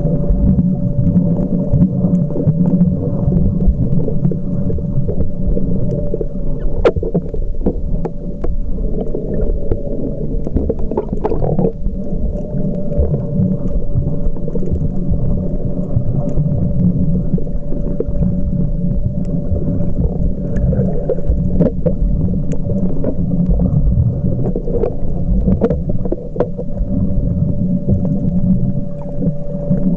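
Underwater sound picked up by a submerged camcorder while snorkelling: a dense, muffled low rumble with a steady hum and scattered faint clicks.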